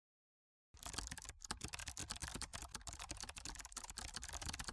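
Rapid typing on a computer keyboard: a dense, fast run of key clicks that starts just under a second in, out of dead silence.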